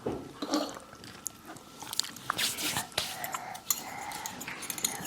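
Close-miked eating: wet chewing and mouth smacks with scattered small clicks, at an irregular pace.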